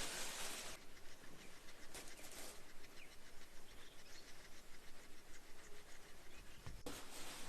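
Outdoor ambience with faint bird chirps and scattered small clicks, broken by three short bursts of rustling noise: one at the start, one about two seconds in, and one near the end.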